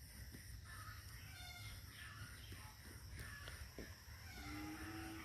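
Faint outdoor ambience with scattered short animal calls, and one steady low-pitched animal call lasting about a second near the end, over a constant low rumble.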